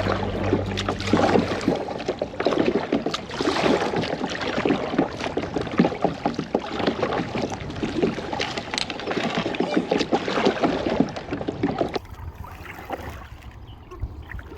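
Kayak paddling, with busy splashing of paddle blades and water against the hull; about twelve seconds in it cuts suddenly to quieter lapping water.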